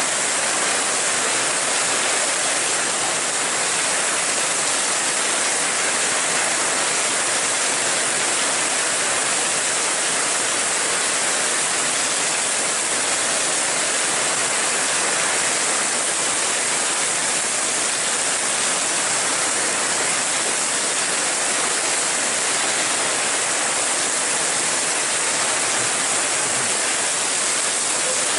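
Steady heavy rain falling: a continuous, even hiss with no breaks.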